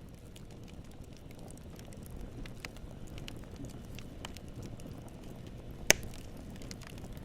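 Campfire burning with a steady low rumble and scattered crackles, and one loud pop a little before the end.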